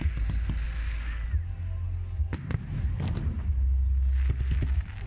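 Fireworks exploding: heavy low booms and rumbling, with a few sharp cracks about two to three seconds in.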